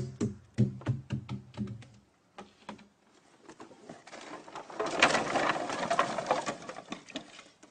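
Liquid poured from a five-gallon can: a quick run of rhythmic glugs, then a longer hissing splash from about four seconds in to near the end.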